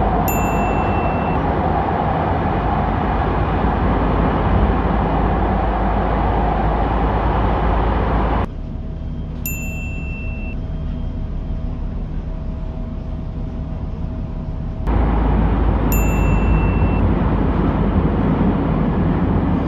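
Steady rumble of a subway train car in motion. A short electronic chime sounds three times, and the rumble drops suddenly to a quieter hum in the middle before coming back just as suddenly.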